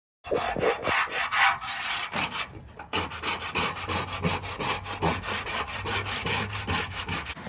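Rapid back-and-forth scraping strokes, about eight a second, pausing briefly between two and three seconds in, with a faint steady low hum underneath in the later part.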